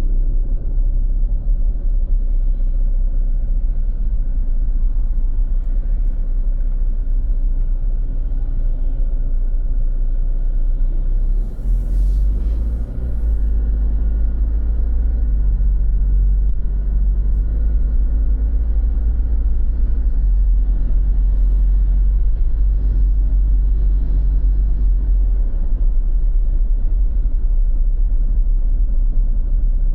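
Steady low rumble of street traffic, with a brief hiss about twelve seconds in.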